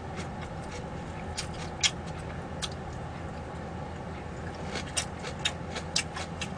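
Eating sounds: scattered short, sharp smacks and clicks of chewing over a steady low hum. They come more often in the second half.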